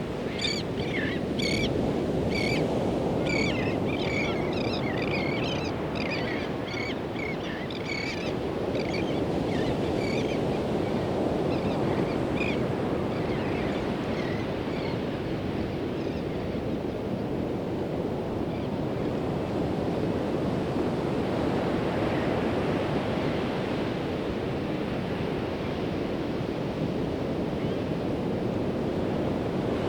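Pacific Ocean surf washing steadily onto a sandy beach. Over the first half, a bird calls in a quick series of short chirps that thin out and stop about halfway through.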